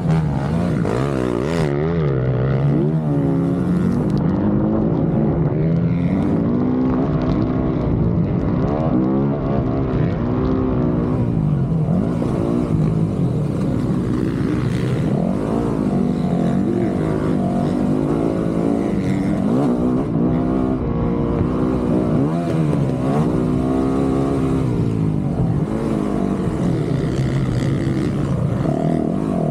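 Dirt bike engine being ridden hard in a motocross race, revving up and falling back again and again as the throttle is worked and gears change, its pitch climbing and dropping every second or two.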